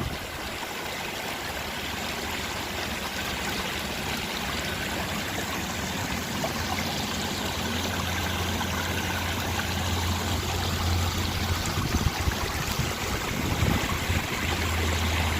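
Running, splashing water of a park water feature, a steady rushing that grows gradually louder.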